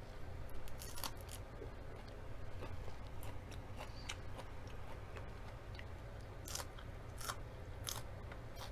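Close-up chewing of raw leafy greens, with sharp crunches at irregular moments as they are bitten and chewed.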